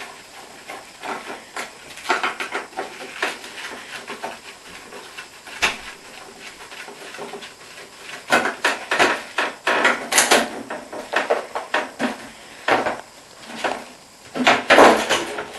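Screwdriver work on a dishwasher's sheet-metal door hinge: irregular clicks, knocks and scrapes as the screws are loosened and metal parts are handled. The loudest flurries come past the middle and again near the end.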